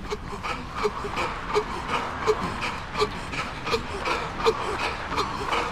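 A runner's heavy panting, the breaths going in and out in rhythm with running footsteps that land about three times a second.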